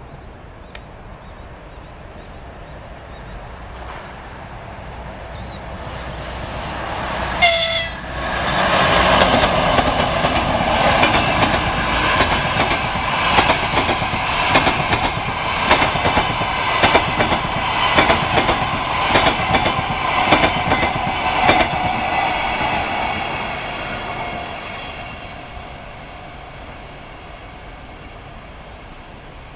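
EP2K electric locomotive and its passenger coaches passing at speed. The noise grows as it approaches, a short horn blast sounds about seven seconds in, then the coaches go by with a rapid run of wheel clicks over rail joints, fading away as the train recedes.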